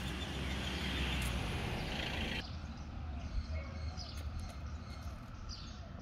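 Birds chirping in short rising and falling calls, over a low rumble of wind on the microphone. A steady hiss in the first couple of seconds stops abruptly.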